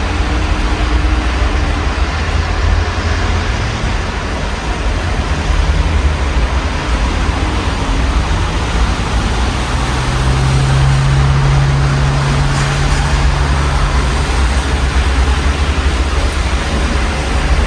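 Steady rain falling outside an open window, over a constant low rumble of city traffic. A passing vehicle's engine hum stands out for a few seconds past the middle.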